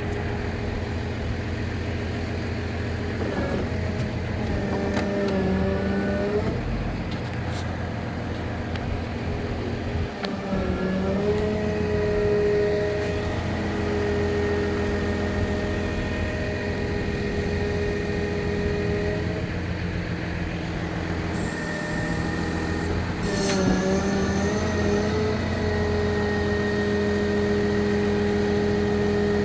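Freightliner bucket truck's 6.7-litre Cummins diesel engine running, its speed shifting up and down a few times and holding steady in between. A short hiss about three quarters of the way through.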